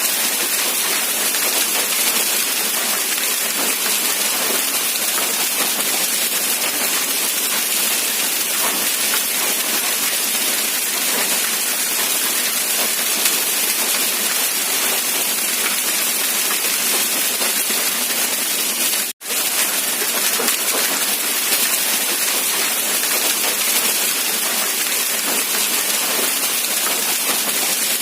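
Steady rain falling, an even hiss with most of its weight in the high end and little low rumble. It cuts out for a split second about two-thirds of the way through.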